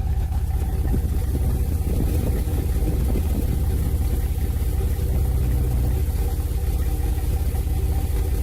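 Nissan 350Z's VQ35DE V6 idling steadily, heard at the exhaust, with a low rumble. The engine has a random cylinder-one misfire (code P0300), which the owner puts down to a badly leaking test pipe ahead of the O2 sensor making it run lean.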